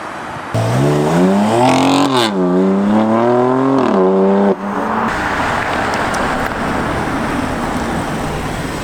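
Car exhaust under hard acceleration: the engine note starts abruptly, climbs in pitch, dips briefly, then climbs again before cutting off suddenly about four and a half seconds in. A steady rushing noise follows.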